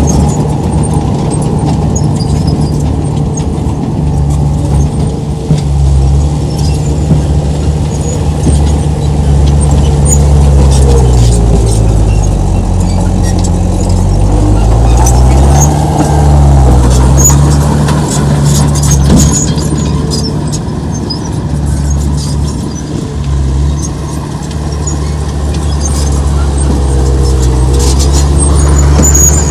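Heavy diesel earthmoving machine running under load, its engine pitch sagging for several seconds about a third of the way through, then picking up again. Short metallic squeaks and clinks sound over it.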